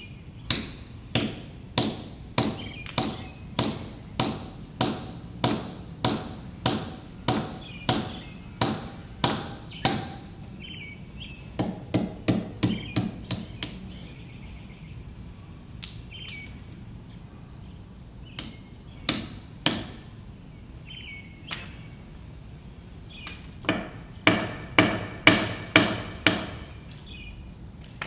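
Stonemason's hammer striking a chisel into stone in a steady rhythm of about two blows a second. Around the middle a quicker run of lighter taps and a few scattered blows break the rhythm, before it picks up again near the end. Birds chirp faintly between the blows.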